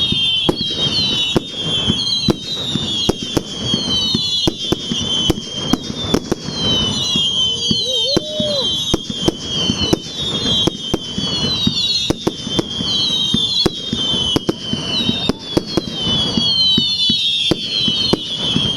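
Fireworks display: a dense, continuous barrage of bangs and crackles, with many short high whistles falling in pitch over it.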